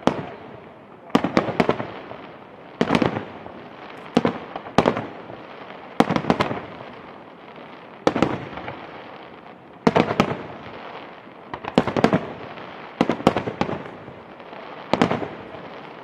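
Fireworks display: loud sharp bursts of aerial shells going off in quick clusters of two to four, a fresh cluster every second or two, each with an echoing tail.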